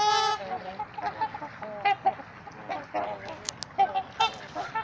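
Trumpeter swans calling: a chorus of short, horn-like honks, overlapping and irregular, with one longer held note at the start.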